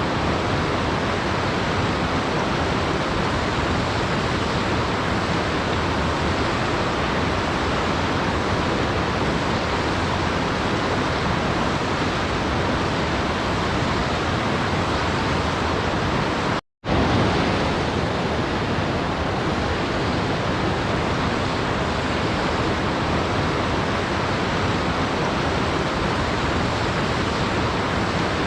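Waterfall rushing in a steady, even wash of water noise. About two-thirds of the way through it cuts out to silence for a split second, then starts again at the same level.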